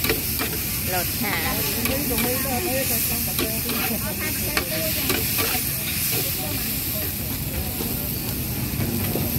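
Food frying and sizzling with a steady hiss, broken by occasional sharp clicks.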